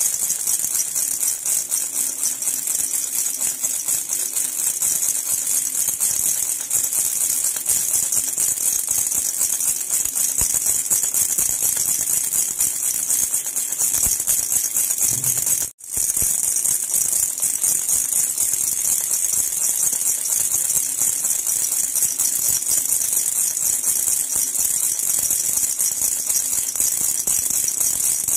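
Silver jhunjhuna baby rattle shaken continuously, a dense, steady high metallic jingle. It breaks off for a split second a little past halfway, then carries on.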